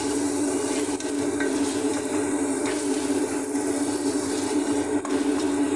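Canned mushrooms sizzling in oil in an aluminium pot as they are stirred with a wooden spatula, with occasional light scrapes of the spatula against the pot. A steady low hum runs underneath.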